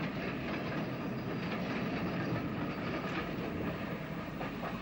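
Steam-hauled local passenger train behind a GNR S-Class 4-4-0 rolling past, the coaches making a steady running noise over the rails with a few faint wheel clicks over rail joints.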